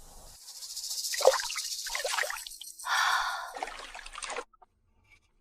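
Water splashing and trickling in several surges, stopping abruptly about four seconds in.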